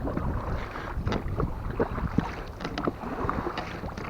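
Small boat being rowed: irregular knocks and splashes from the oars in the water, with wind on the microphone.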